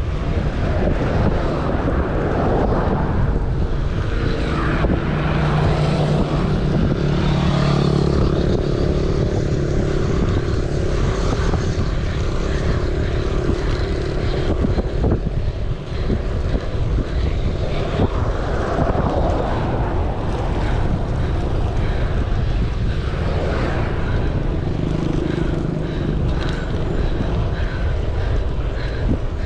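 Wind buffeting the microphone on a moving bicycle, a steady low rumble. A low motor hum comes up for several seconds about five seconds in and again briefly near the end, as a vehicle passes.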